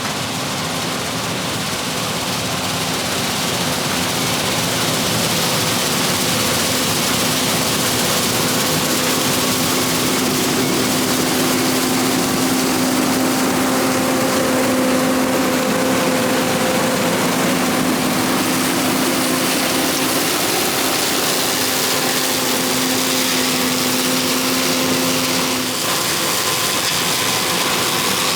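Combine harvester running steadily while cutting soybeans: an even machine drone with a steady hum, part of which drops out near the end.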